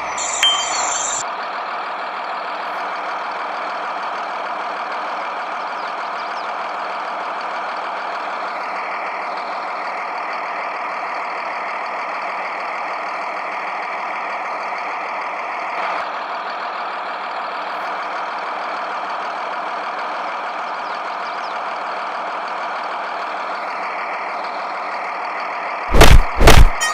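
Steady mechanical running noise, like a vehicle engine, that seems to repeat on a loop. Two loud short bangs come near the end.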